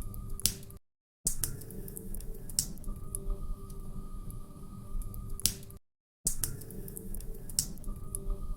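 Log fire crackling in a fireplace: irregular sharp snaps and pops over a low rumble of burning wood. The sound cuts out completely twice, briefly, about a second in and again about six seconds in.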